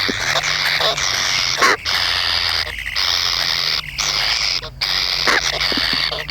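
Kingfisher calling in a continuous high-pitched trill, broken by a few short pauses.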